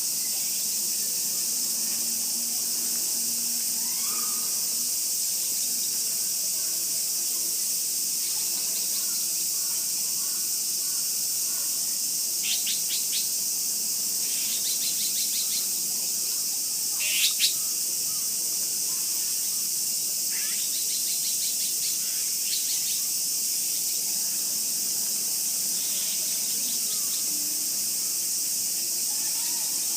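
A steady, high-pitched insect chorus, with small birds chirping in short repeated series a little under halfway through, the loudest call about seventeen seconds in.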